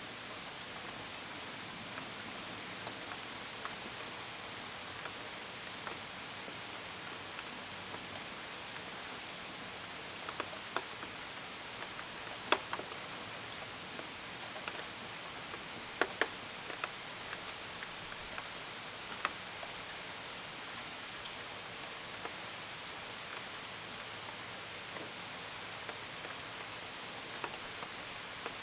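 Steady gentle rain with individual drops tapping on window and gutters, a few sharper drips standing out near the middle. Crickets chirp faintly and steadily under the rain.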